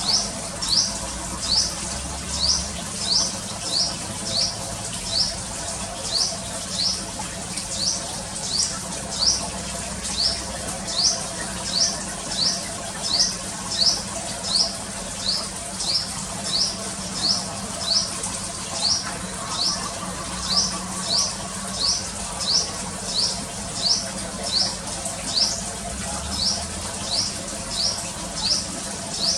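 Sunbird calling: a high, thin, upward-sweeping note repeated steadily, nearly twice a second.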